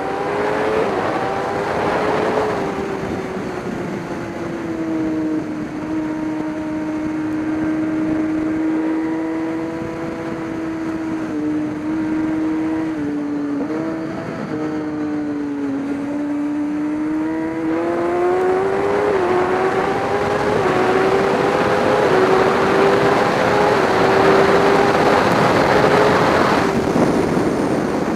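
Racing motorcycle engine running hard at steady high revs. Its pitch sags in the middle, then climbs again and holds higher as it accelerates, with a rushing noise building over it.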